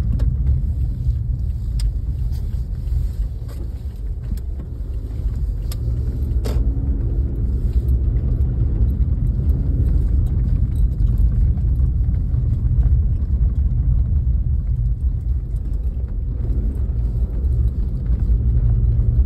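Inside a moving car's cabin: steady low road and engine rumble, with a few faint clicks.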